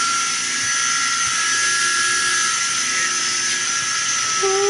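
Chiller plant machinery running steadily at full speed, a high steady whine over a hiss, like an airplane.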